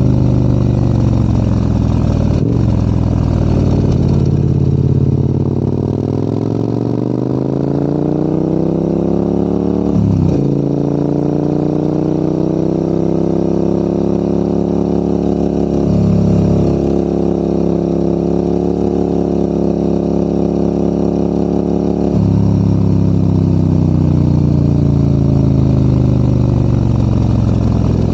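Adventure motorcycle engine pulling uphill. The revs drop over the first few seconds, then climb, fall sharply about ten seconds in at a gear change, and climb again. There is another dip near the middle, then steady running, and the revs ease off for the last few seconds.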